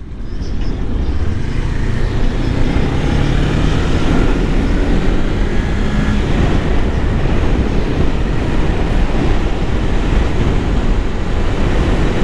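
Kawasaki Ninja 400 parallel-twin engine running under steady wind and road noise while riding, heard from a helmet-mounted microphone. The engine pitch climbs slowly over the first few seconds as the bike accelerates.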